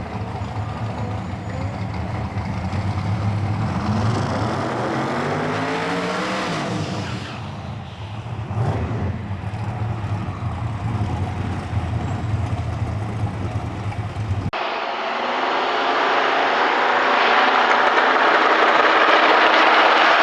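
Drag car's twin-turbo V8 running, its pitch climbing for a few seconds and then falling away. About two-thirds of the way through the sound changes abruptly to a steadier, thinner engine noise without the deep low end.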